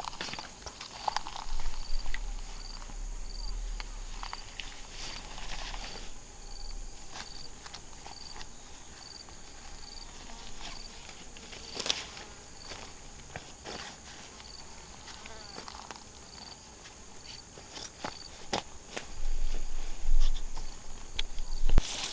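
Forest insects calling: a steady high drone with a short high chirp repeating at an even pace. Scattered sharp clicks and knocks run over it, busier near the end.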